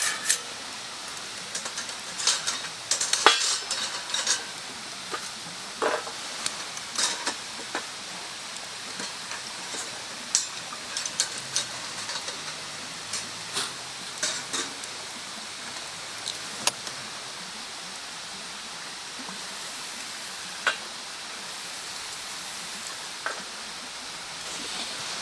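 Wood bonfire crackling: sharp pops and snaps over a steady hiss. The pops come thick in the first few seconds, the loudest about three seconds in, then thin out to occasional single pops.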